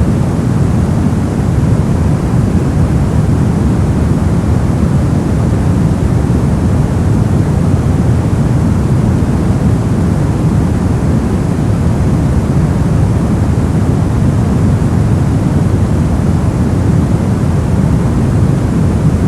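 Steady, unbroken noise of the kind played as white noise for sleep and focus. It is weighted to the low end, so it sounds deep rather than hissy, and it holds one even level throughout.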